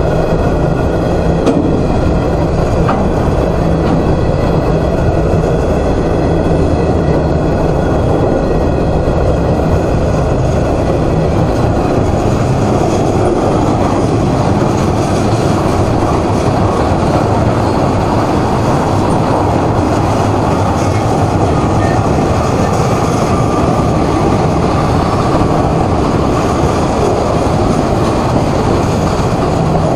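Steel wheels of a long freight train's cars (covered hoppers, tank cars and boxcars) rolling past on the rails, a loud, steady noise that does not let up.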